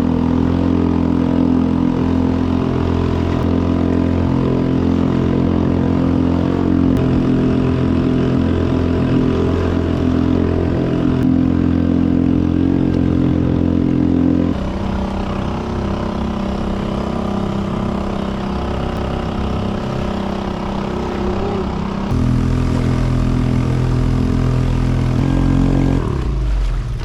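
Honda 2.3 hp four-stroke outboard motor on a kayak running steadily under way. It is throttled down about halfway through, opened up again a little later, and eased off right at the end.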